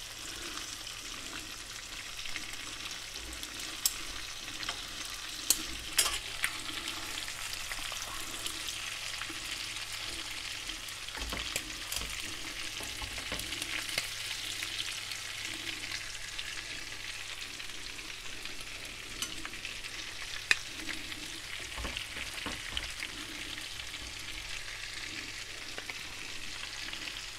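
Black tiger prawns sizzling steadily with garlic in a frying pan, with a few sharp clicks of tongs and a wooden spatula against the pan as the prawns are moved.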